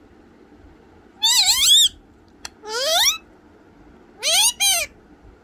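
Parrot calling: three short calls about a second apart, each sliding up and down in pitch, the last broken into two parts, with a small click between the first and second.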